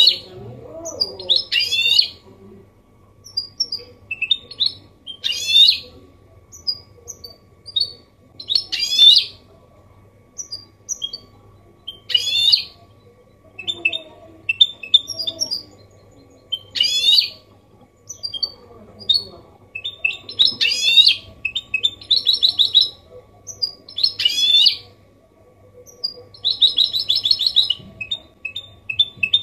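A goldfinch mule (goldfinch hybrid) singing in the copia Málaga style: short bright phrases of chirps and twittering notes every few seconds, with buzzing trills near the middle and again near the end.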